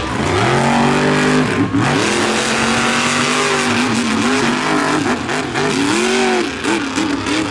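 Supercharged big-block V8 monster truck engines revving hard. The pitch climbs steeply in the first second, then swings up and down over and over as the throttle is worked.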